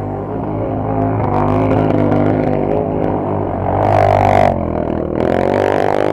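Off-road vehicle engine running and revving, its pitch swelling and shifting. Two short hissing bursts come about four and five seconds in.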